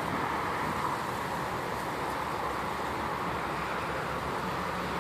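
Strong wind blowing across the microphone: a steady rushing noise.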